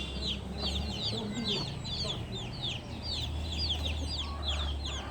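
Chicks peeping: a continuous run of short, high, falling chirps, several a second and overlapping.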